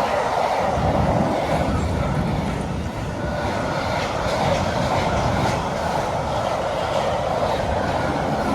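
Freight train rolling past at speed: a steady rumble and rolling noise of wagon wheels on the rails.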